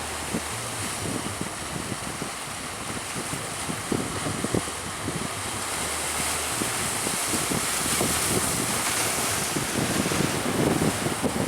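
Strong wind buffeting the microphone over the rush of sea waves, the hiss of the water swelling louder around the middle.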